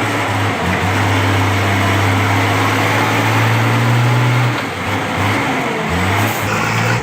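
Heavy truck engine running hard under load, its note holding steady for several seconds and then rising and falling as the throttle changes near the end.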